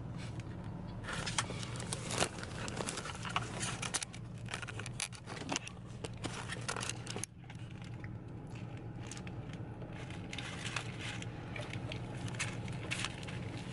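Scattered clicks, scrapes and rustles, like things being handled, over a low steady hum.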